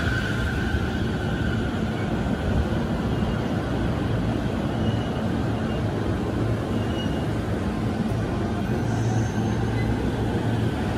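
E231 series electric commuter train rolling slowly along the platform as it brakes to a stop, a steady rumble of wheels on rail with a low hum.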